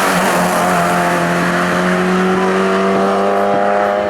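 Race car engine held at high revs under load, its pitch climbing slowly and steadily as it accelerates.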